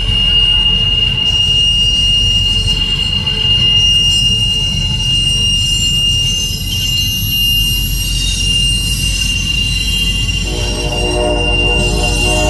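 Conrail holiday train moving slowly in reverse, its wheels squealing on the rail in one steady high tone over a low rumble. About ten seconds in, a train horn starts sounding as a chord of several tones.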